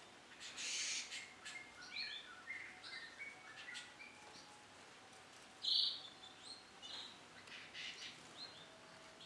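Canary chirping: a string of short, scattered chirps and call notes, with one louder note about six seconds in.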